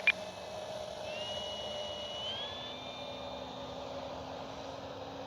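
The last of a string of short electronic beeps right at the start, then the faint, steady drone of an electric RC warbird's brushless motor and three-blade prop flying at a distance. A thin high whine joins about a second in and steps up in pitch about two seconds later.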